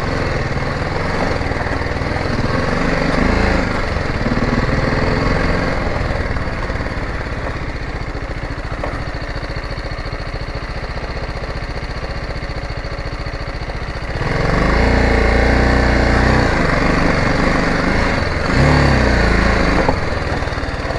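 Motorcycle engine running under way, its pitch rising and falling with the throttle. It gets louder about two-thirds of the way through and revs up and back down twice near the end.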